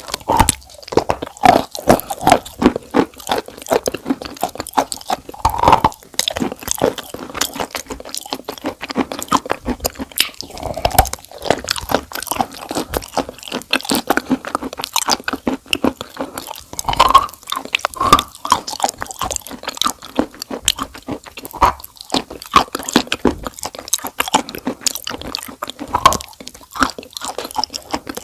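Close-miked chewing and biting of crunchy food: dense, irregular crunches and crackles.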